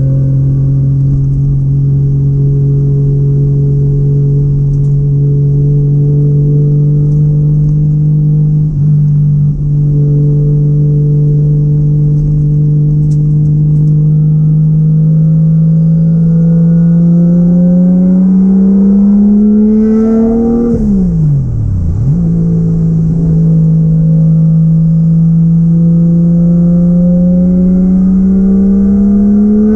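Turbocharged 1JZ-GTE VVTi straight-six engine of a Nissan 240SX pulling at a steady cruise, its pitch climbing gradually. About two-thirds through the revs fall sharply, as at a lift-off or gear change, then settle and begin to climb again near the end.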